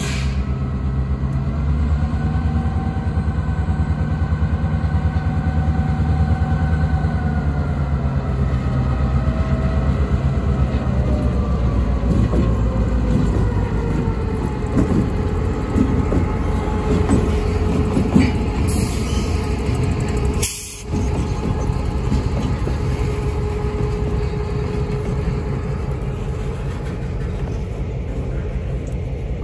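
Norfolk Southern diesel-electric locomotive running past with a steady engine drone that fades after about eight seconds. Covered hopper cars follow, rolling by with their wheels clicking over rail joints.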